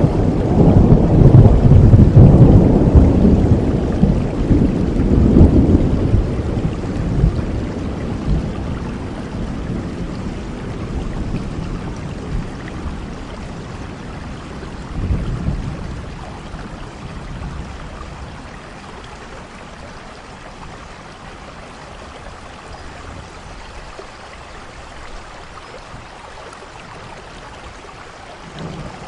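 Steady rain with a long roll of thunder: a loud low rumble in the first few seconds that slowly fades over about fifteen seconds, a smaller swell about halfway, then only rain hiss until a new rumble starts at the very end.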